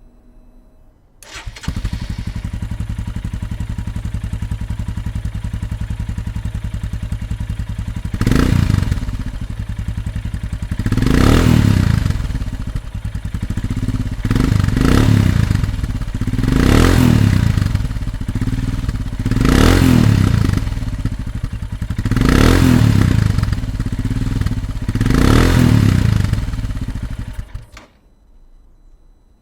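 Royal Enfield Himalayan's single-cylinder engine through a PoweRage slip-on exhaust with its dB killer fitted, idling steadily, then blipped about seven times, each rev rising and falling back to idle every two to three seconds. The sound cuts off near the end.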